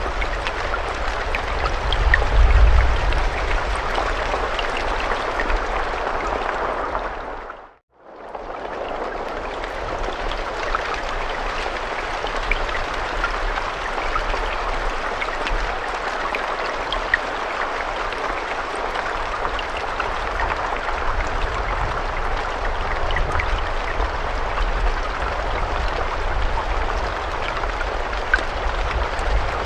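Steady rain with individual drops pattering, over a low rumble that is strongest about two seconds in. The rain fades out to silence briefly about eight seconds in, then swells back to the same steady level.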